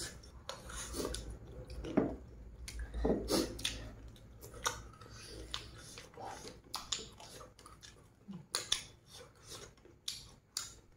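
Close-up mouth sounds of people chewing and smacking on roasted duck eaten by hand, with scattered irregular clicks and light taps.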